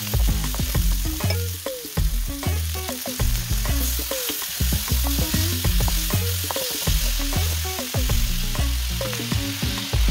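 Chopped onion and minced garlic sizzling in hot oil in a nonstick wok, stirred with a wooden spatula that scrapes the pan again and again.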